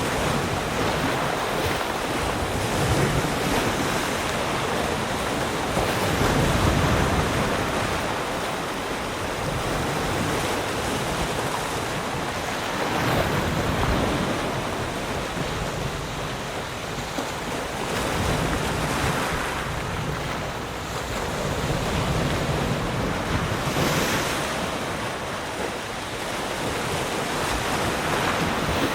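Ocean waves breaking and washing on a shore, a steady surf that swells every few seconds as each wave comes in.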